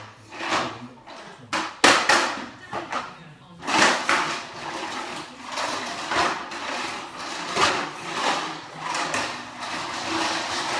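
A couple of sharp knocks, then a vacuum cleaner running from a little under four seconds in, its sound swelling and easing over and over as it is pushed back and forth.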